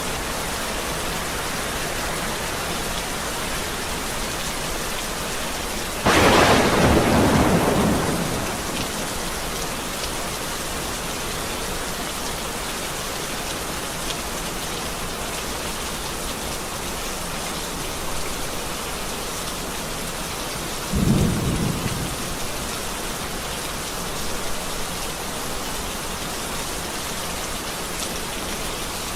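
Steady rain falling, with thunder: a sharp clap about six seconds in that rolls on for a couple of seconds, and a shorter, lower rumble about twenty-one seconds in.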